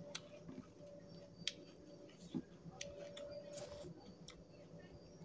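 Close-up eating sounds of a man chewing a mouthful of rice and curry and scooping food with his fingers: wet mouth clicks and smacks scattered through, a few of them sharp. A faint steady hum runs underneath.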